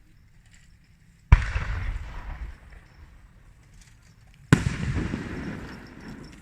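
Two loud firework bursts about three seconds apart, each a sharp bang followed by a rolling rumble that dies away over a second or two, heard from close to the launch site.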